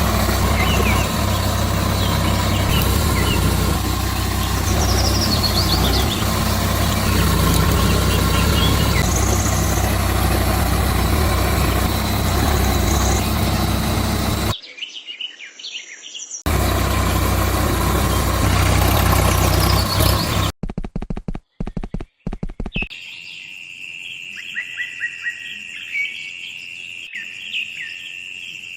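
An engine running steadily, with birds chirping over it. It drops out suddenly about halfway through, comes back, then cuts off in a few choppy breaks, leaving birdsong and a steady high tone.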